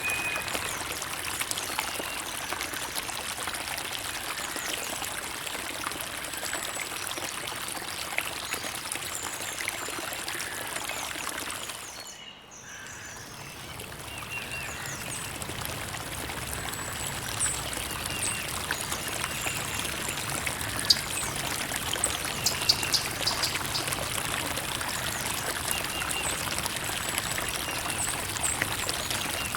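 Creek water trickling and running steadily, with a brief dip in level about twelve seconds in.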